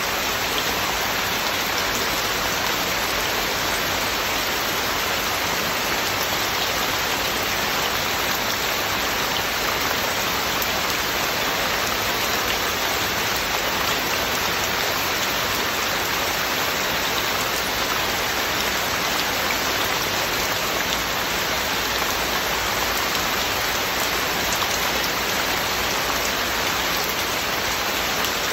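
Heavy, steady rain falling, a dense even hiss with no thunder.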